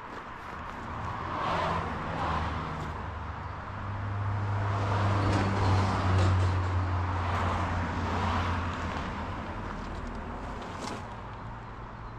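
Road traffic on a highway: a vehicle passes about two seconds in, then a louder one with a low engine hum and tyre noise builds to a peak around the middle and fades away.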